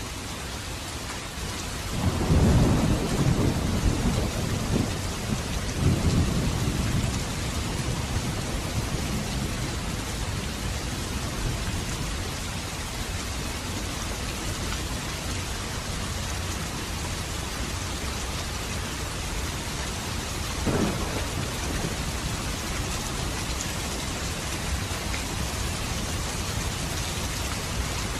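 Steady rain falling, with thunder: a long low rumble rolls in about two seconds in and swells again a few seconds later, and a shorter, sharper clap comes about three quarters of the way through.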